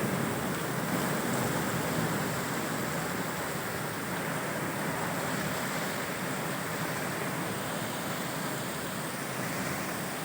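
Heavy downpour in strong wind: a steady, unbroken rush of rain.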